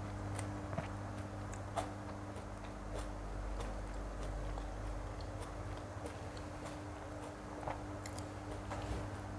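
Soft, wet chewing of rolled egg snack (telur gulung), with scattered faint mouth clicks, over a steady low hum.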